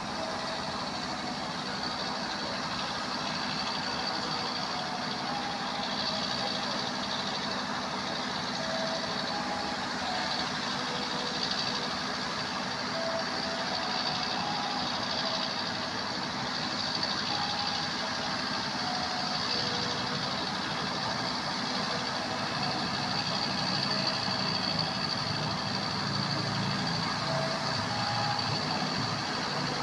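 Steady mechanical running noise of a heavy rail or road vehicle, even in level throughout, with a low steady hum and short high-pitched tonal squeaks or beeps scattered at irregular intervals.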